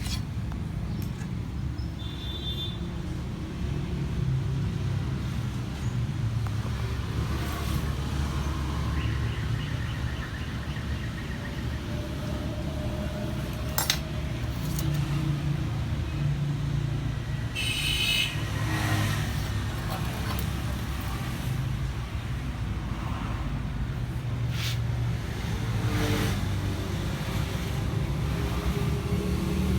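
Steady low rumble of motor vehicles, with scattered sharp clicks and a few brief high chirps.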